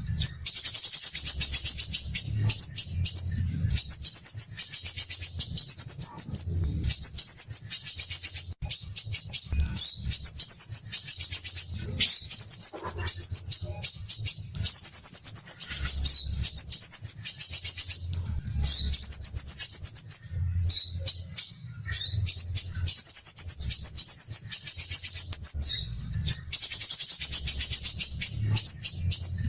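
Crimson sunbird (sepah raja) singing: rapid, dense, harsh high-pitched trills in phrases of one to two seconds, broken by short pauses.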